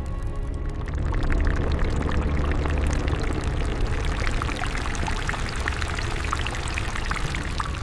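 Dense crackling, pattering noise laid over a low rumbling drone, swelling about a second in.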